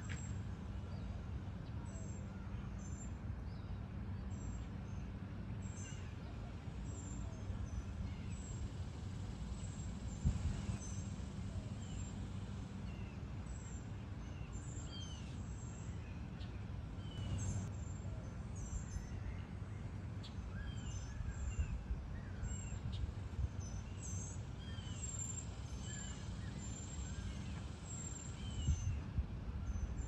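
Birds chirping and whistling in short, scattered calls over a steady low hum, with a brief bump about a third of the way in and another near the end.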